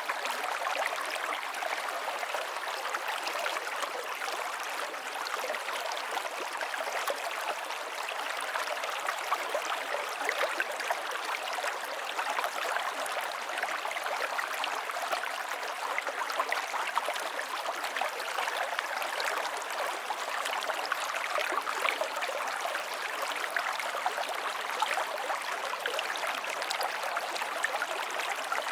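River water flowing and splashing steadily, a constant rush with many small splashes and gurgles.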